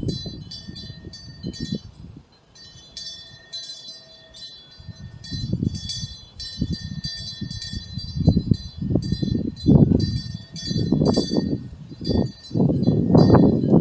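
Small metal temple wind bell (pungyeong) ringing in the breeze, its clapper striking in quick, irregular tinkles. Gusts of wind rumble on the microphone, strongest near the end.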